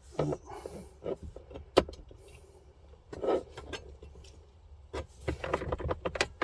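Irregular clicks, knocks and rattles of plastic dashboard parts and wiring being handled and pushed into place during a car radio install, with one sharp click about two seconds in and a quick run of clicks near the end.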